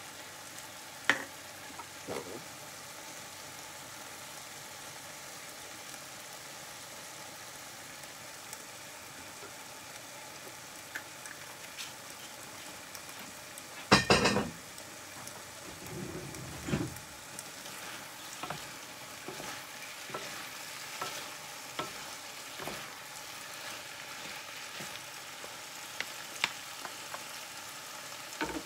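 Ratatouille vegetables (onion, eggplant, zucchini, tomato) sizzling steadily in a frying pan. One loud knock comes about halfway through, and scattered light knocks of wooden spatulas stirring the pan follow in the second half.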